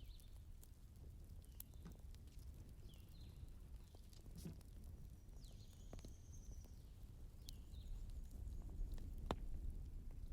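Faint wood fire burning in a fireplace: a steady low rumble with scattered sharp crackles and pops, and a few short high squeaks.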